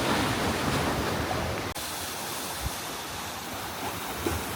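Steady rush of moving water, a wide even roar with a short break about two seconds in.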